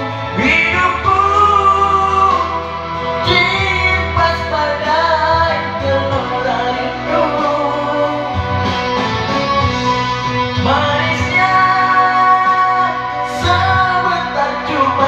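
A voice singing a slow song over backing music, holding long notes.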